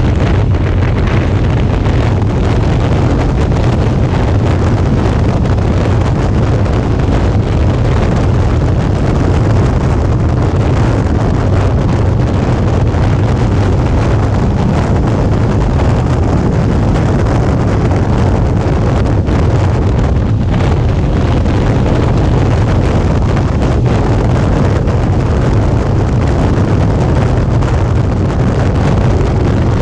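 Wind rushing over an action camera's microphone on a moving Suzuki V-Strom 650, over the low, steady drone of its V-twin engine at cruising speed.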